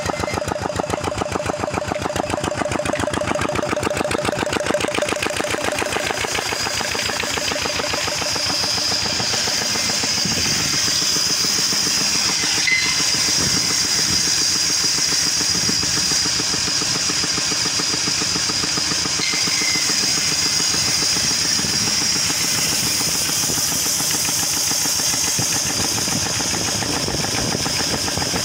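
An engine running steadily with a rapid, even firing beat, joined after several seconds by a thin high-pitched whine.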